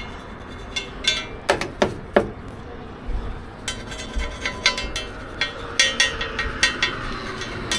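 Metal cooking utensils clinking and tapping against each other, with a few heavier knocks about two seconds in, over a steady hiss.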